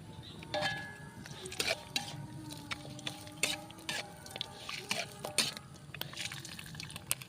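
Small birds frying in hot oil: irregular crackling pops and spatters over a low sizzle.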